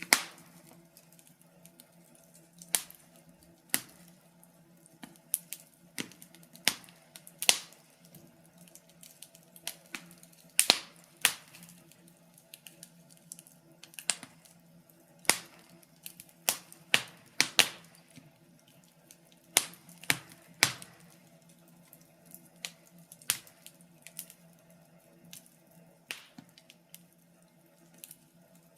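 Fireplace fire crackling: irregular sharp pops and snaps, one to three a second, over a faint steady low hum.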